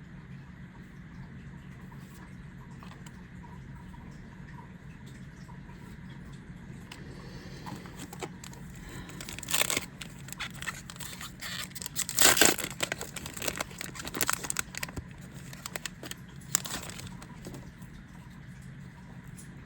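Foil booster pack wrappers being torn open and crinkled: a run of sharp tearing and crinkling bursts that starts about a third of the way in and is loudest near the middle, over a low steady hum.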